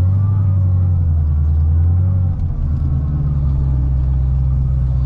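Supercharged 6.2-litre V8 of a modified C6 Corvette ZR1 running at steady low revs while driving. About halfway through, the note dips briefly and settles lower.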